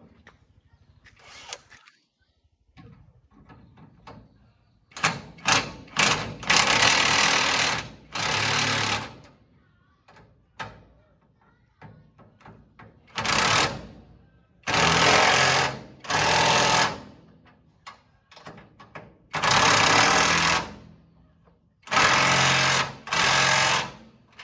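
A power tool running in about eight short bursts of one to two seconds each, with brief clicks between them.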